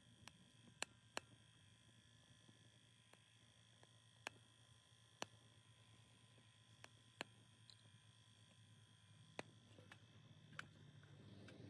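Faint, sparse pops and clicks of wood burning in a small Sierra camp stove, about ten sharp cracks spread irregularly, over a faint steady hum.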